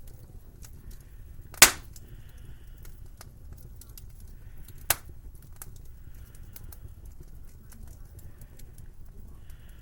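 Wood fire in a fireplace crackling, with many small scattered clicks over a low steady rumble. One sharp, loud pop comes about a second and a half in and a smaller pop about three seconds later.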